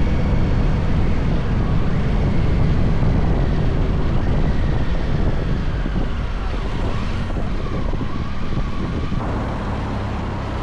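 Motorcycle engine running at road speed, with wind rushing over the microphone. In the second half the engine note slides lower and the sound eases off as the bike slows.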